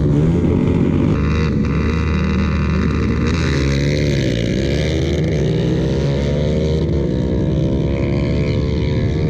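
Several motorcycle engines running at once, loud and steady. About four seconds in, one engine note dips in pitch and climbs again.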